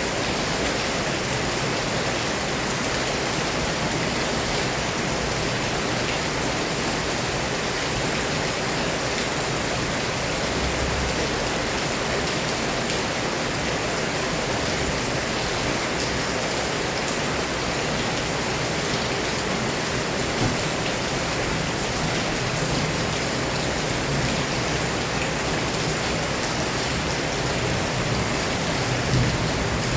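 Heavy rain pouring down steadily, a dense even hiss of drops on surfaces, with a brief low rumble near the end.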